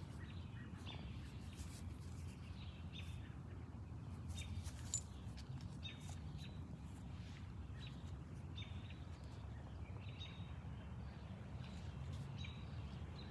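Birds chirping in short, scattered calls over a faint, steady low rumble.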